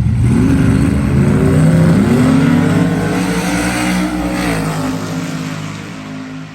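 Drag cars at full throttle down the strip. The engine pitch climbs in several steps through gear changes, holds high, then drops about four and a half seconds in as they lift off and fade away.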